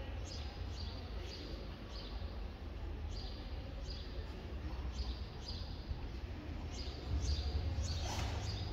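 A bird chirping over and over, short high falling chirps about every half second, over a low steady rumble. Near the end comes a brief swish as a kneeling swordsman draws his sword.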